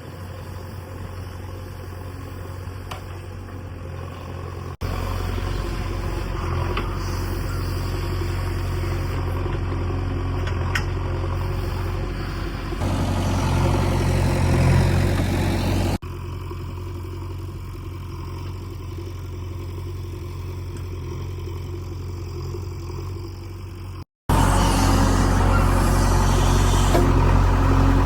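Diesel engine of heavy farm machinery, a tractor or JCB backhoe, running steadily with a low hum, heard in several clips that cut abruptly from one to the next. It gets louder for a few seconds in the middle, then drops back; a brief dropout comes near the end before a louder clip.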